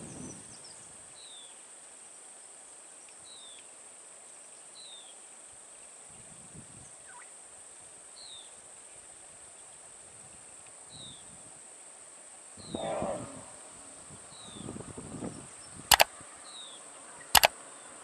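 Outdoor wildlife ambience over a steady high hiss: a bird repeats a short falling chirp about every one and a half seconds, with soft rustling in the second half and two sharp clicks near the end.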